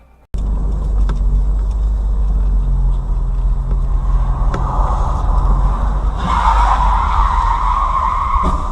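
Car driving, heard from the dashboard camera: a steady low engine and road rumble that starts abruptly, with a harsher hiss swelling from about six seconds in and easing off near the end.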